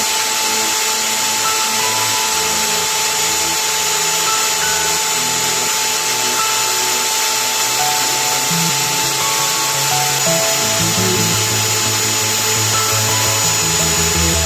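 Electric drill driving a homemade wood lathe, running at a steady speed with a constant high motor whine, under background music.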